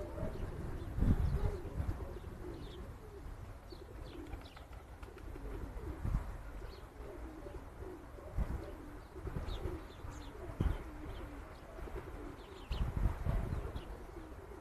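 Pigeons cooing over and over in low warbling phrases, with faint high chirps of small birds and a few low thumps.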